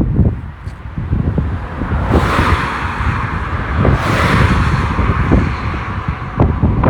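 Strong wind buffeting the microphone in irregular low gusts. A rushing hiss swells for a few seconds in the middle, then fades.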